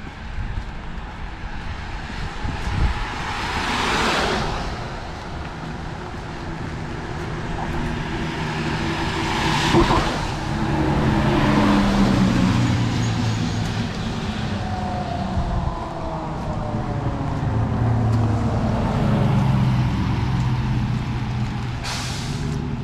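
Road traffic on a wet street: vehicles hiss past about four, ten and twenty-two seconds in, each swelling and fading. An engine hums through the middle, its pitch sliding down.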